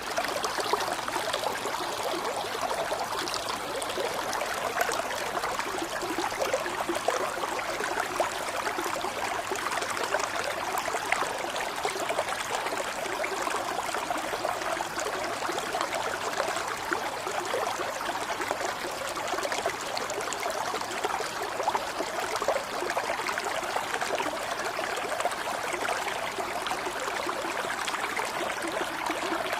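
Running water flowing steadily, like a small stream: an even rushing with fine, fast-flickering detail and no single splashes or pauses.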